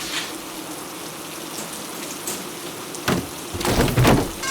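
Rain falling steadily as an even hiss, then a louder crackling, rumbling burst from about three seconds in.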